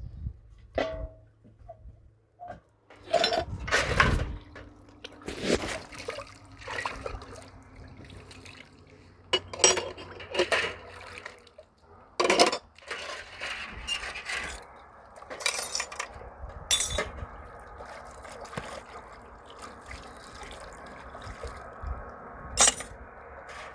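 Water splashing and sloshing in irregular bursts as a wet cloth is worked, with a steadier run of water in the second half.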